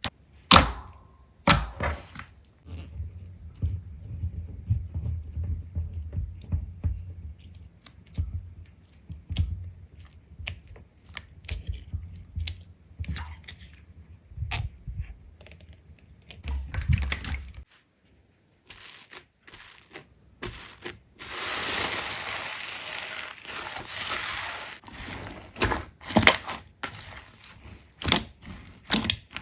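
Slime being pressed and squeezed by hand: a string of sharp wet clicks, pops and crackles, with a few seconds of steady crackling hiss in the latter part.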